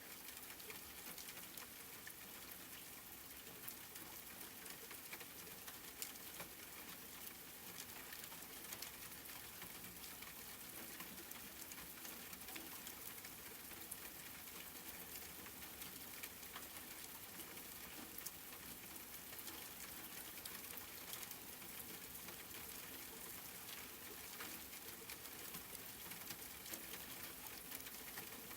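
Steady rain falling, a soft even hiss with many small drops ticking on a surface.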